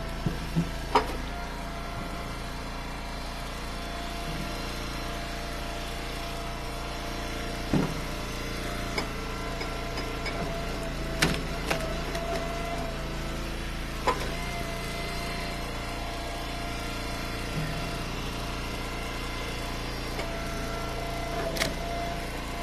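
Engine of an Eastonmade Ultra wood splitter running steadily, its pitch sagging briefly a few times. Sharp cracks and knocks sound about seven times as cherry firewood splits and the pieces drop.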